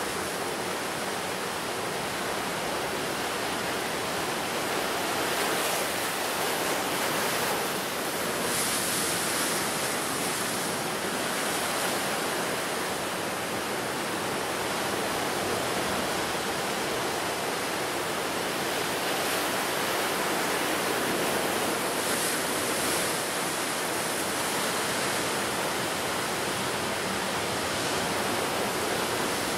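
Ocean surf washing steadily onto the shore, swelling a little louder as waves break now and then.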